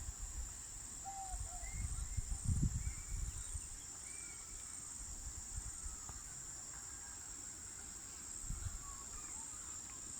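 Outdoor natural ambience: a steady high-pitched insect drone throughout, with several short, scattered bird chirps. There are low rumbles in the first few seconds and again near the end.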